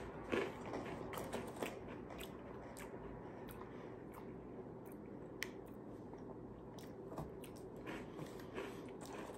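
Faint crunching and chewing of little seaweed-flavoured crackers, a scatter of small crisp clicks.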